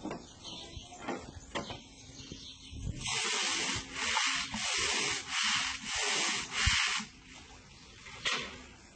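Stiff brush scrubbing a bird cage, a run of about six rhythmic back-and-forth strokes lasting about four seconds, with small knocks and rustles before and after.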